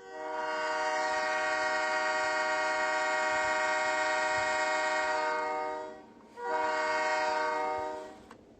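Multi-tone diesel locomotive air horn sounding a chord of several steady notes in two blasts: one long blast of about six seconds, then after a brief break a shorter one of about two seconds.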